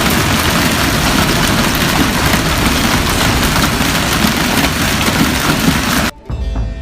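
Avalanche snow and powder rushing over a car, heard on its dashcam: a dense, steady rushing noise that cuts off suddenly near the end.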